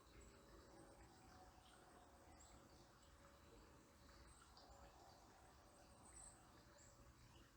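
Near silence, with faint, thin, high bird chirps a few times over a low background hiss.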